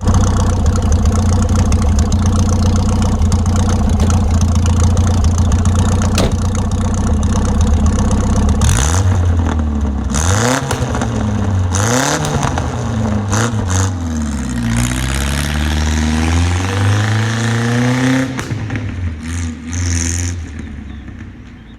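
A car's four-cylinder engine running steadily, then revved up and down several times before its sound falls away near the end.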